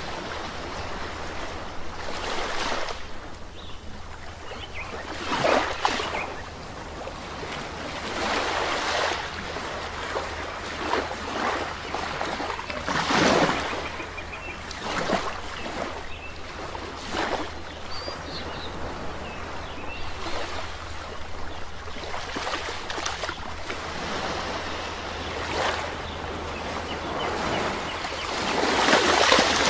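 Sea waves breaking and washing onto a shore, swelling in a surge every few seconds over a steady wash, with the biggest surge near the end.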